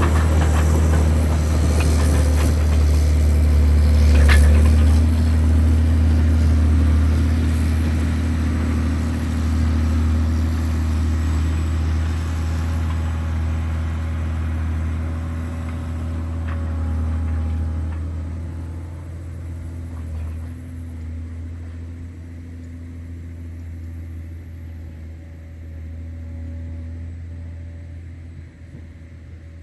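John Deere 670GP motor grader's diesel engine running with a steady low drone that fades gradually over the second half. A single sharp click about four seconds in.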